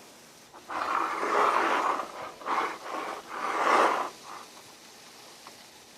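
Sizzling from a hot skillet in three loud surges, the longest about a second in and another near the middle, then dying back to a faint steady sizzle.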